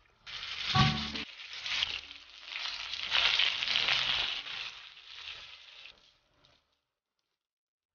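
Starch- and egg-coated chicken wings shallow-frying in hot oil in a pan: a steady sizzle, loudest around the middle, that stops about six seconds in. A short louder sound comes just before the sizzle, about a second in.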